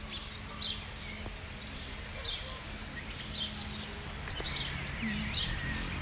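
Small songbirds chirping, several at once, in quick high notes that come thickest in the second half.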